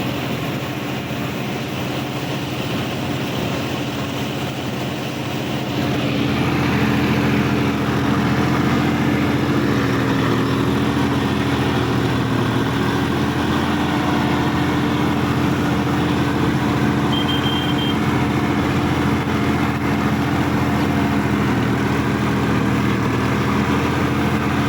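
Sonalika Supreme DI 50 RX tractor's diesel engine running steadily. It gets louder about six seconds in and then holds an even pitch.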